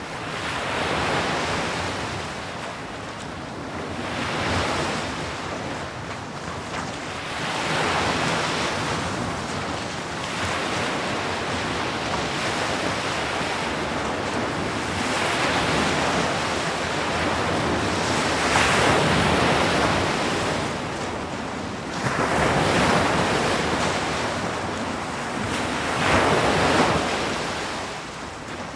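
Sea waves breaking on a shore, a continuous wash that swells and eases every few seconds.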